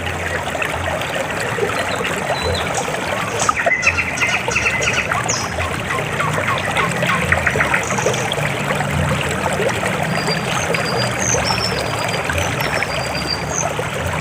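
River water flowing over rocks, a steady babbling and trickling, with a busier splashy patch about four seconds in.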